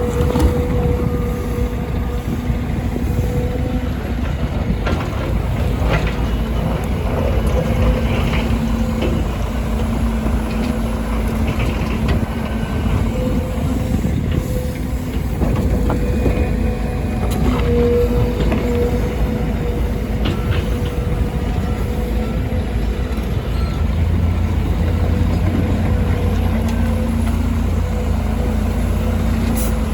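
Volvo EC300E excavator working, its diesel engine running steadily under load with a constant whine over it, and scattered clanks and knocks from the bucket as it digs and loads soil.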